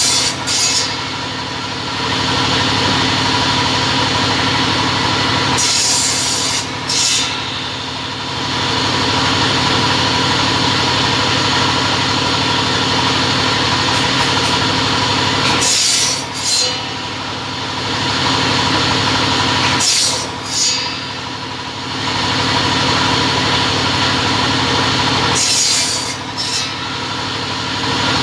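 Two-head cutting saw running steadily with a constant hum. Short bursts of cutting noise come in close pairs, about four times, as material is cut.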